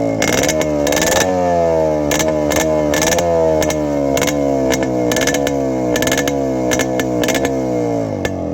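1991 Yamaha RX100's single-cylinder two-stroke engine with a modified exhaust, revved at standstill in quick repeated throttle blips, the pitch climbing and falling over and over with sharp crackles, easing back toward idle near the end.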